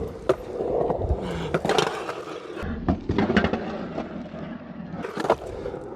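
Skateboard rolling on concrete, its wheels giving a steady rumble, with several sharp clacks as the board and trucks strike the coping and deck.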